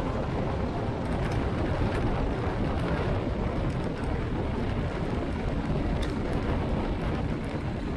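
Light aircraft engine and propeller running steadily, a continuous drone with no changes in pitch.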